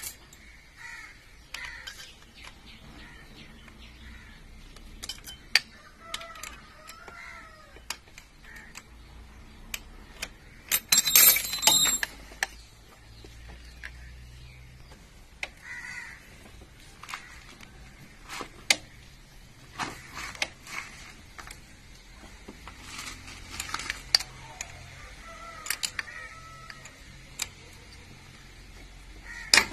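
Hand tools working on a motorcycle engine's valve gear: scattered metallic clicks and clinks of spanners, with a louder clattering burst about eleven seconds in. Birds call faintly in the background twice.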